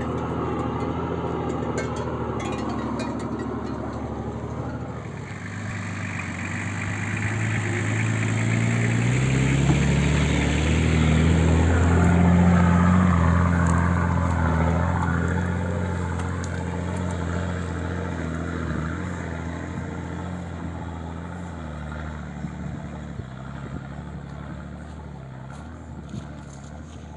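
Car engine revving under load, its pitch rising as it climbs a steep ramp. It grows louder to a peak about twelve seconds in, then fades as the car drives away.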